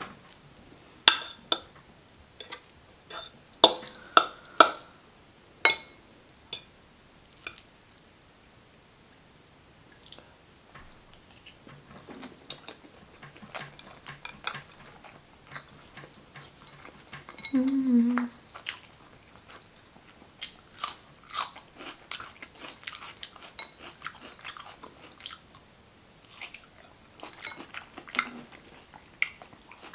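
A person eating close to the microphone: chewing and biting with crisp crunches and wet mouth clicks, thickest in the first few seconds and again in the second half.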